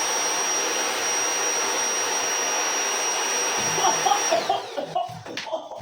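Home-built electric jet engine's fan motor running with a steady rush of air and a high whine, then switched off a little over four seconds in, the whine sliding down as it winds down.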